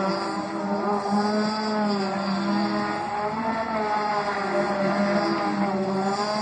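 Racing RC boat motor running at speed on the water, its pitch rising and falling as the boat is throttled and turned, over a steady lower drone.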